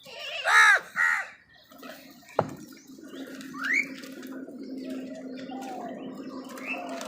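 Crow cawing twice, loud and harsh, about half a second apart, followed by scattered small-bird chirps and a sharp click over a steady low hum.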